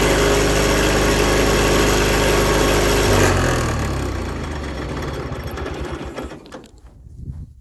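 Garden tractor engine running steadily, then switched off about three seconds in and coasting down to a stop in slowing thumps.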